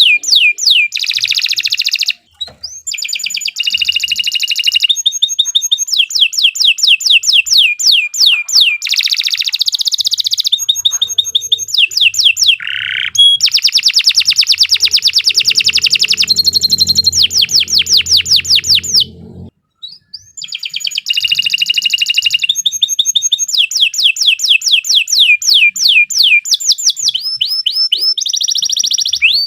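Domestic canary singing a long, loud song of fast trills: rapid rows of repeated sweeping notes, switching from one tour to the next every second or two. The song breaks off briefly about two seconds in and again near the twenty-second mark.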